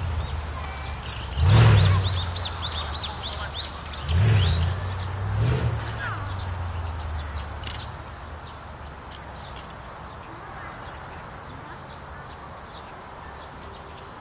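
Birdsong outdoors: a rapid run of about ten high chirps about two seconds in, then scattered single chirps. Under it a low rumble swells three times in the first six seconds, then settles into a steady quieter background.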